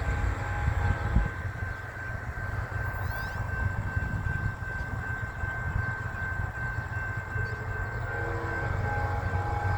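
Diesel locomotive leading a loaded freight train, its engine and the train running with a steady low rumble. A faint horn chord is heard near the start and again about eight seconds in.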